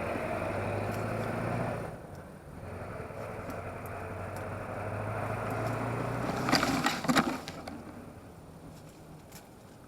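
X101 drone's electric motors and propellers whirring, heard from the onboard camera, dropping out briefly about two seconds in and picking up again. About six and a half seconds in come several sharp clattering knocks as the drone crashes, and the motor whir stops.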